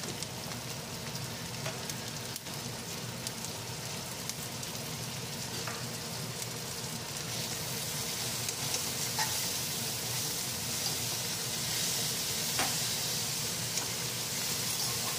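Onions fried with ginger-garlic and green-chilli paste sizzling in oil in two iron karais, with a steady hiss. Metal spatula and ladle stir and scrape in the pans, making occasional light clicks.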